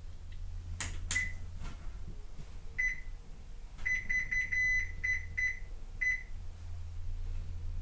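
Control-panel beeps of a Toshiba ZABOON AW-7D9 washing machine as its buttons are pressed to set a spin cycle. Two clicks about a second in, then about ten short beeps of one pitch, several in quick succession in the middle and a last one near the end, over a steady low hum.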